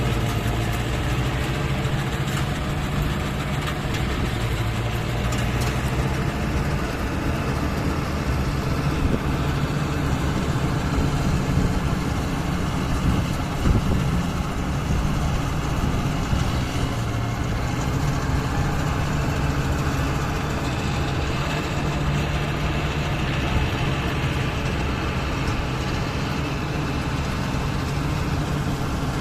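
Mahindra Novo 655DI tractor's diesel engine running steadily, its pitch wavering a little, with one brief knock about halfway through.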